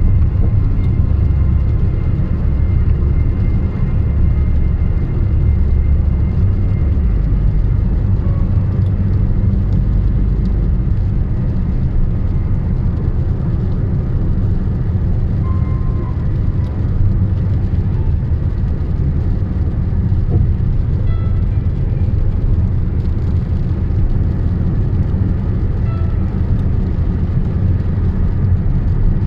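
Steady low rumble of a car driving on a highway: road and engine noise.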